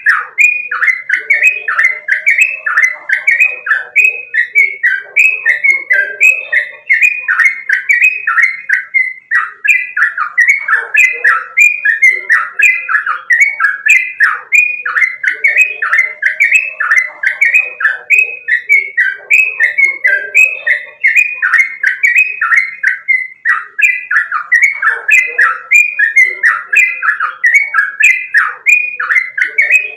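Yellow-vented bulbul (trucukan) singing a rapid, unbroken run of short falling whistled notes, several a second, without pause.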